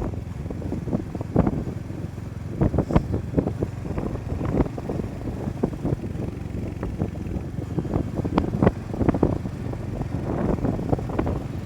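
Motorcycle running while being ridden: a steady low engine and road rumble with wind buffeting the microphone in irregular gusts.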